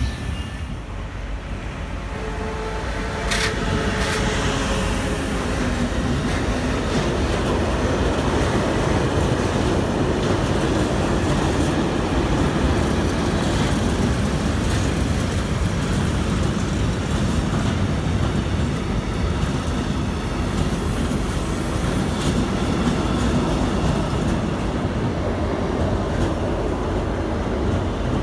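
Freight train of tank wagons and car-carrier wagons rolling past close by, a steady heavy rumble of wheels on rail that swells to full loudness about three seconds in and holds.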